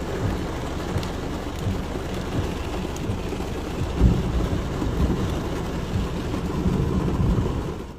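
Storm noise: steady heavy rain with a low rumble throughout, and a brief stronger low thump about four seconds in.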